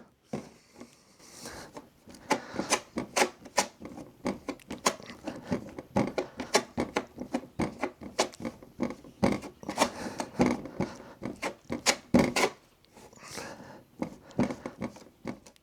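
Two-part body filler being mixed with its hardener: a spreader scraping and folding the paste in quick, irregular strokes, pausing briefly near the end.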